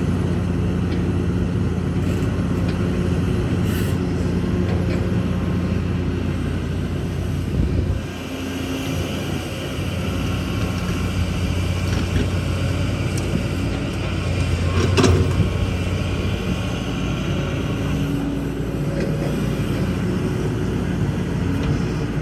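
Kobelco excavator's diesel engine running steadily at work. The engine dips briefly about eight seconds in, then a higher whine joins it. A single sharp clank comes about fifteen seconds in.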